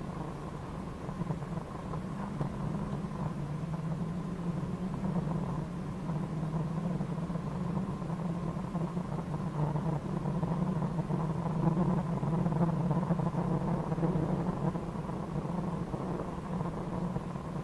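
A rally car's engine drones under load inside the cabin, heard muffled and narrowed through the crew's intercom. It swells a little about two-thirds of the way through.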